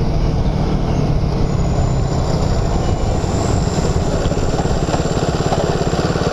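Motorcycle engine running with an even, rhythmic beat that becomes steadier near the end.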